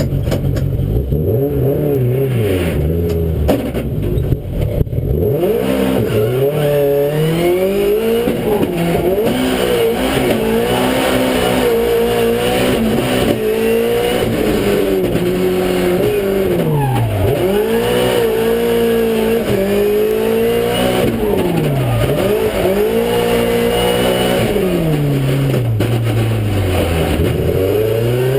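Race car engine driven hard on track, its pitch climbing and falling again and again as it accelerates and slows.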